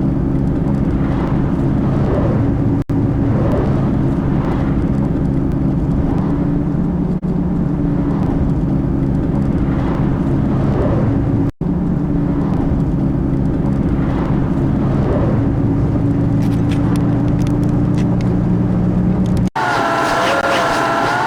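Steady engine drone and road noise of a vehicle driving on the highway. Near the end it cuts abruptly to a different, higher pitched wavering sound.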